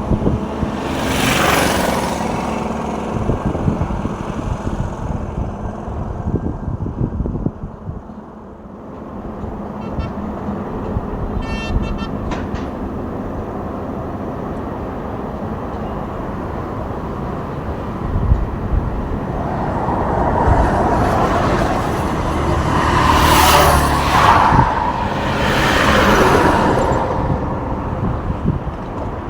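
Road traffic: trucks and cars passing by with engine and tyre noise, several swelling and fading as they go past. A brief horn toot sounds about twelve seconds in.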